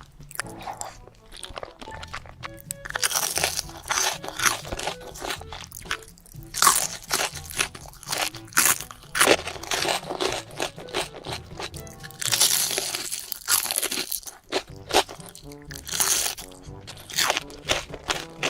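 Close-miked eating sounds: a person biting and chewing crunchy food, with repeated crisp crunches and longer bursts of crunching.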